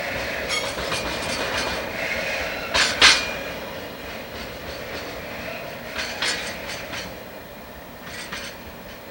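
Freight train of empty oil tank wagons rolling past, its wheels clicking over rail joints in small groups, the loudest pair about three seconds in. The rumble fades toward the end.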